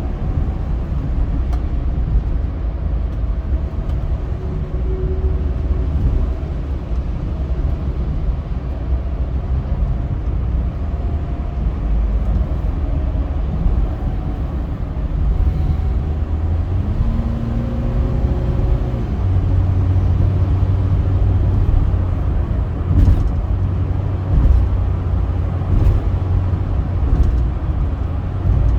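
A car driving on a highway: steady low engine and road rumble. The engine note shifts a little past halfway, and a few short knocks come near the end.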